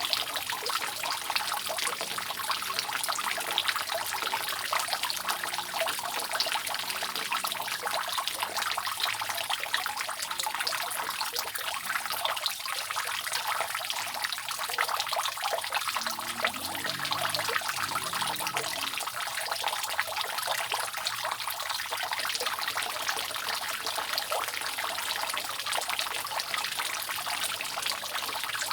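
Rainwater dripping and trickling steadily off a roof, a dense patter of many small drops splashing.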